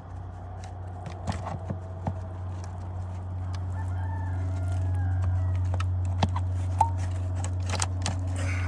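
Scattered sharp taps and clicks of hand tools working wooden roof shakes loose from their nails, over a steady low hum that grows louder after the first few seconds.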